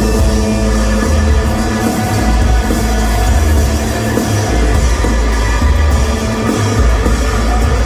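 Live band playing loud rock music: a heavy bass pulses on and off under dense, sustained droning tones.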